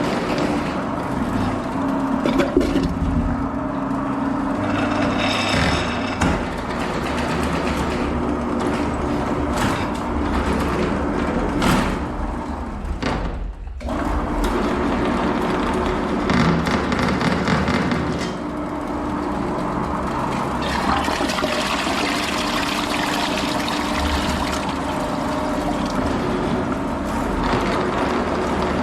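Water rushing and draining, over a steady low mechanical hum. It drops out briefly about halfway through, then carries on.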